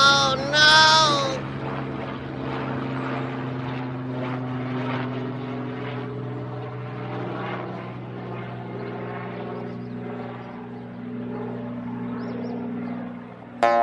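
Steady droning of a propeller aircraft engine, most likely a cartoon sound effect, holding one even pitch. Two short squeaky calls that rise and fall come in the first second and a half.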